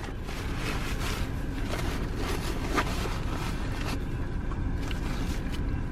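Steady low rumble and hiss of a car, like road noise while driving, with a few faint clicks.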